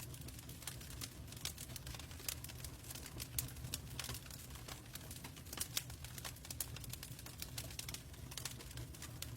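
Wood fire crackling in a fireplace: irregular sharp pops and snaps, some much louder than others, over a low steady rumble.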